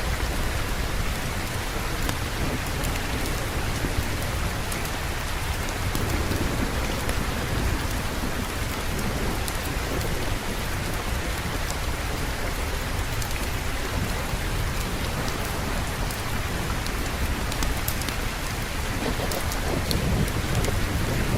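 Steady heavy rain with low rolling thunder that swells about six seconds in and again near the end.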